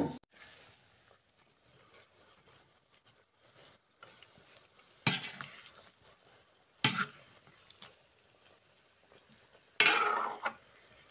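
Sliced red chilies frying in linseed oil with a faint steady sizzle, the chilies still wet and their water cooking off. A spatula scrapes and clanks against the pan three times, about five, seven and ten seconds in, the last one longer.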